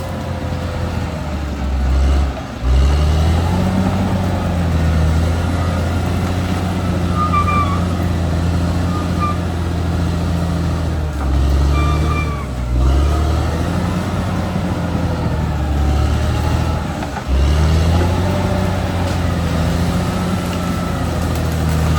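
Caterpillar D6R XL bulldozer's diesel engine running steadily under load, its note dipping and changing abruptly three times, with a few short high squeaks now and then.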